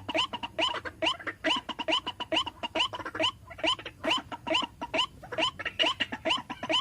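White-breasted waterhen (ruak-ruak) calling: a fast, steady series of short, harsh repeated notes, about three to four a second, played back as a lure call to draw the birds in.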